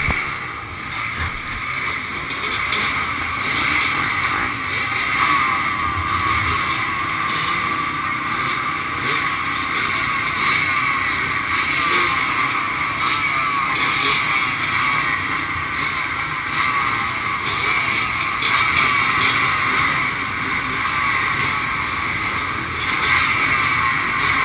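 Many off-road motorcycle engines running at once, their revs rising and falling in a steady mass of engine noise.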